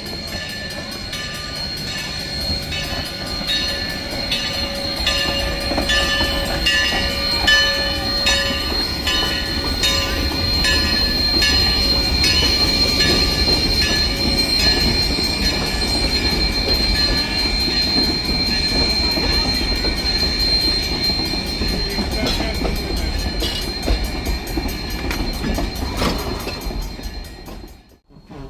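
A train running on the Huckleberry Railroad hauled by locomotive #152. It makes a heavy rumble, with a steady high-pitched wheel squeal and a regular clacking of wheels over rail joints during the first half. The sound cuts off abruptly near the end.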